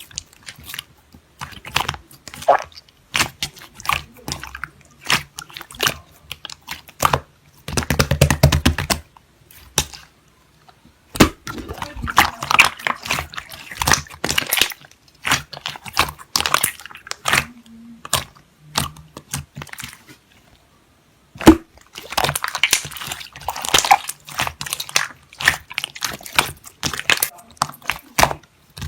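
Slime being squeezed and poked by hand, giving runs of sticky clicks and crackling pops, with short pauses between handfuls.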